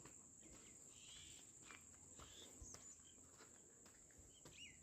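Faint, steady high-pitched drone of crickets, with a few faint bird chirps over it.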